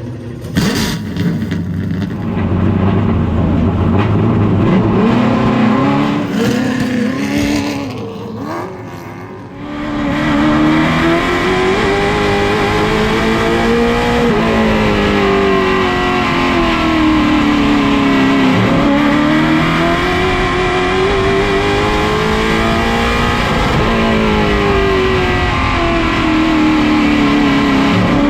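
A late model stock car's V8 engine running at racing speed, its pitch climbing and falling over and over as it drives laps on the oval in qualifying. Around ten seconds in the engine becomes louder and steadier.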